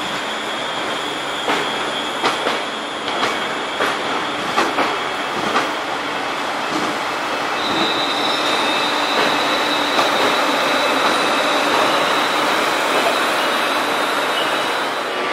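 Train wheels clicking over rail joints several times. Then, about halfway through, a steady, high-pitched wheel squeal sets in and holds.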